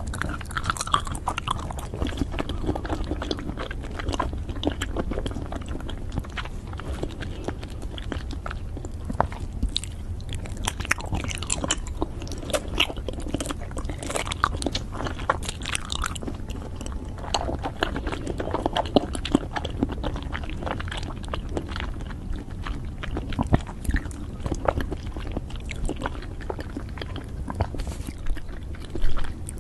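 Close-miked eating sounds of a person biting into and chewing soft Kyoho grape jelly balls: a steady run of short mouth clicks and chews, with a brief louder noise near the end.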